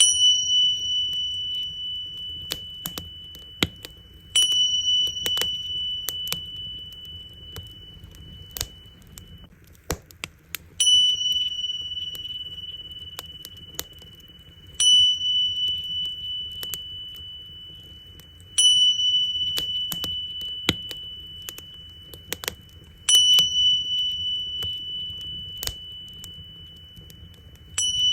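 Tingsha cymbals struck together seven times, every four to six seconds, each strike ringing with a high, wavering tone that fades over several seconds. Underneath, a wood fire pops and crackles.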